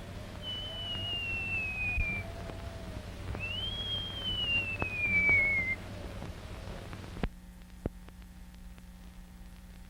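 Two long, clear whistled cries, each sliding slowly down in pitch, the second starting with a short rise. About seven seconds in the sound cuts off suddenly, leaving a faint hum.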